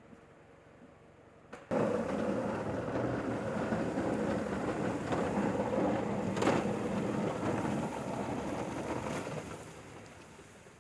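A motor running with a rushing, grinding noise. It starts abruptly about two seconds in, holds steady, then fades away near the end.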